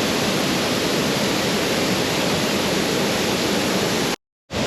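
Waterfall heard up close, a loud, steady rush of falling water. It cuts out completely for a moment near the end, then resumes.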